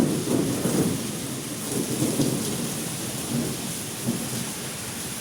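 Strong wind gusts rumbling against the microphone in irregular surges over a steady rushing hiss, easing slightly towards the end.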